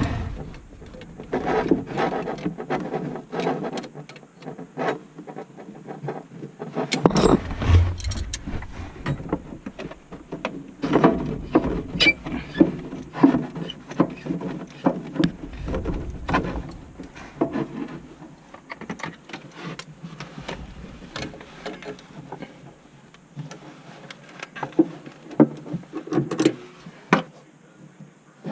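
Hand tools and metal or plastic fittings being handled during plumbing work: a long run of irregular clanks, clicks and knocks, some sharp and loud.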